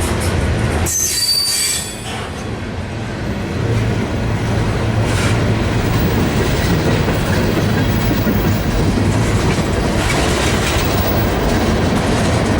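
Freight train rolling past: a steady rumble and rattle of wheels on rail, with a short high-pitched wheel squeal about a second in.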